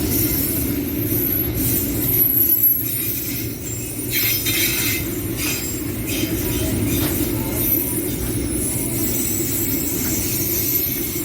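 Train running on the track with a steady rumble, and a few sharp clicks about four to five seconds in.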